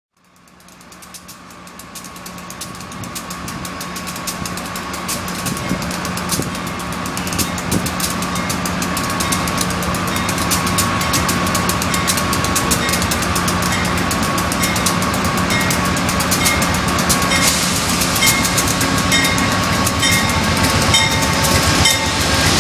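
Amtrak GE Genesis diesel locomotive hauling passenger cars as it approaches and passes close by. The engine hum and the wheels clicking over the rail joints grow steadily louder.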